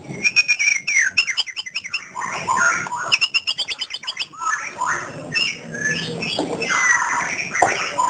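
White-rumped shama (murai batu) singing a continuous 'ngerol' song without pause: a fast run of sharp repeated notes, then clear whistled notes sliding up and down.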